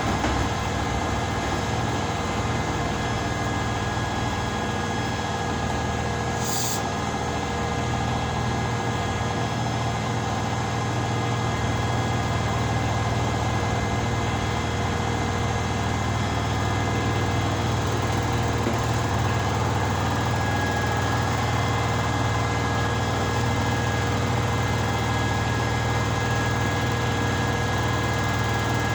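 Washing machine running steadily with a low hum and a constant mechanical drone, the hum growing slightly stronger about twelve seconds in. There is a brief high-pitched tick about seven seconds in.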